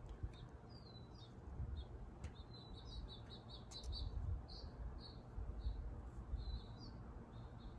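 Small birds chirping in the background: short, high chirps, some gliding in pitch, scattered throughout over a low rumble, with a few faint ticks.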